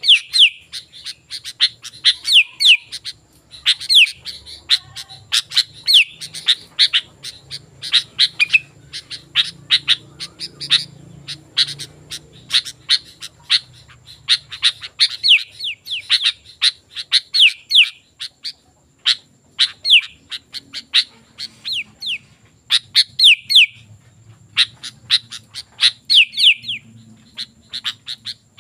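Sooty-headed bulbul (kutilang) singing vigorously. It gives rapid sharp chirps and short whistled notes that slide down in pitch, in bursts with brief pauses.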